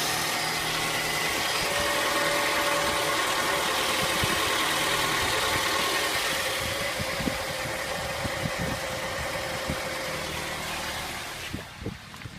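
Honda F23A2 2.3 L four-cylinder petrol engine running steadily. It eases off a little about halfway through and drops away sharply near the end, with a few short knocks.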